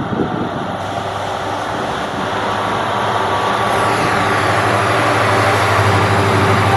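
Indian Railways diesel-electric freight locomotive approaching: a steady low engine drone with rail noise, growing steadily louder.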